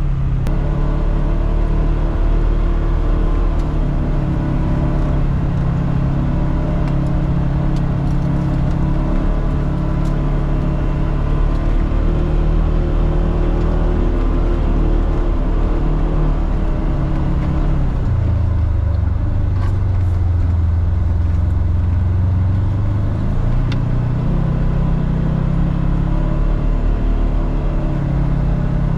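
Polaris Xpedition four-seat side-by-side's engine running while under way on a trail, mostly holding a steady note. It drops to a lower pitch about eighteen seconds in and climbs again a few seconds later.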